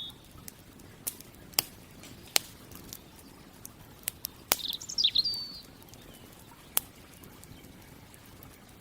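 Campfire wood crackling with a sharp pop every second or so. A bird gives one short chirping phrase about five seconds in.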